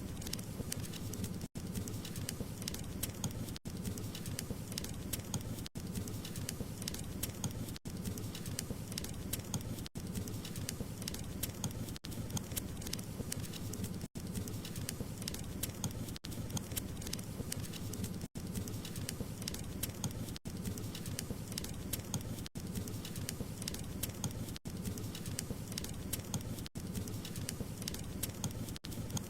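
Wood fire crackling steadily: dense small pops and snaps over a low rush of flame, broken by a brief dropout about every two seconds.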